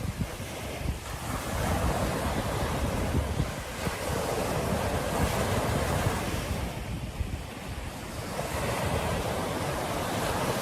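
Ocean surf breaking and washing up a beach, swelling and easing in surges a few seconds apart. Wind buffets the microphone with a low rumble.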